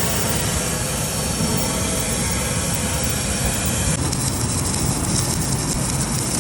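Steady industrial machinery noise in a steel tank fabrication shop, an even mechanical din whose character changes about four seconds in.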